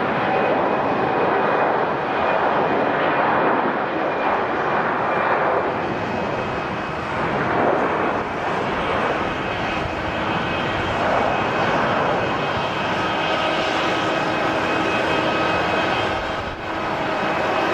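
Jet airliner's engines running steadily: a loud, even rush with faint steady whine tones over it. The level dips briefly near the end.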